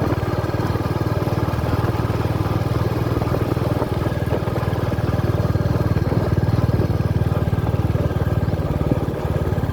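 Royal Enfield Meteor 350's single-cylinder engine running steadily with a fast, even pulse, a little louder past the middle.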